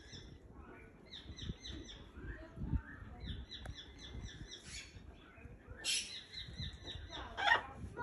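Birds chirping in quick series of short, repeated notes, about four or five a second, with two louder calls in the second half, the louder one near the end.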